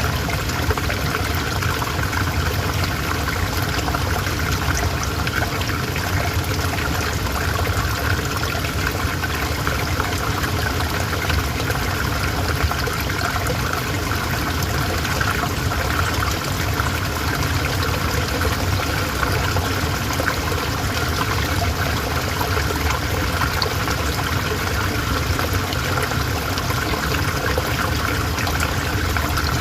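Calm river flowing, a steady, unbroken rush of running water.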